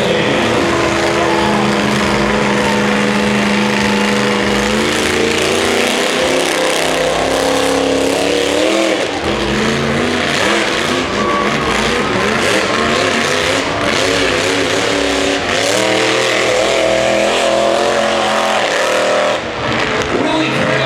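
Monster truck engine running hard and revving over and over, its pitch climbing and dropping with each burst of throttle.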